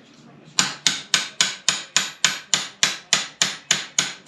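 Hammer tapping a shift rail into an NP205 transfer case, a steady run of sharp blows about four a second starting about half a second in, each with a brief metallic ring.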